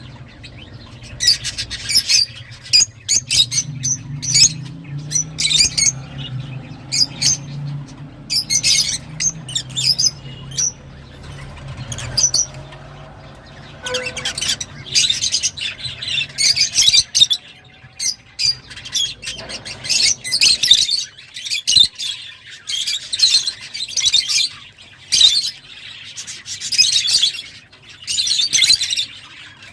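Lovebirds chirping and squawking: rapid, shrill, high-pitched calls in dense bursts with short pauses between them.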